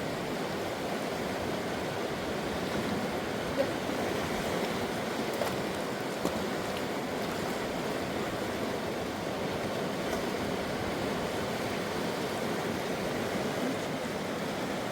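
Steady rushing of a fast river running high, with a few light knocks in the first half.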